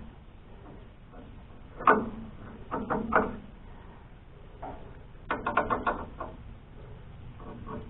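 Hand tools knocking and clicking against the sawmill's parts during repair work: a single sharp knock about two seconds in, two or three more around three seconds, and a quick run of clicks near six seconds.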